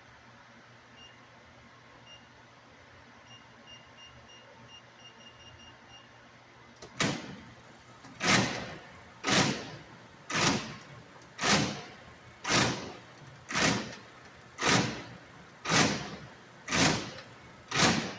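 StairMaster 7000PT stepmill with a failing transmission: a few faint beeps, then, about seven seconds in, a loud clunking noise that repeats about once a second as the machine runs.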